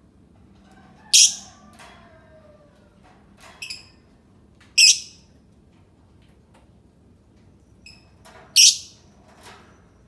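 A lovebird giving three loud, short, shrill calls, about three and a half seconds apart, with a few softer brief chirps in between.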